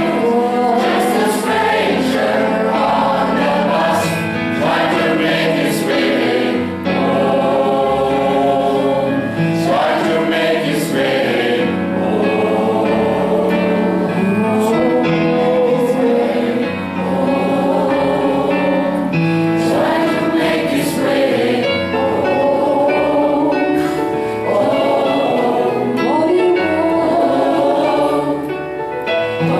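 Gospel choir singing in harmony over a stepping bass line, with long held notes.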